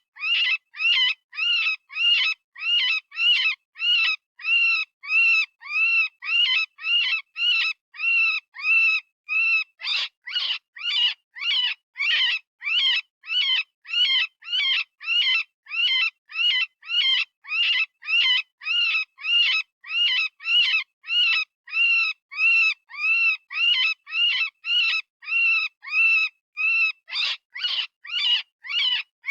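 Synthesized rabbit distress call of the kind used for predator calling: short, high-pitched screams repeated about twice a second, each rising and falling in pitch, with brief gaps between them.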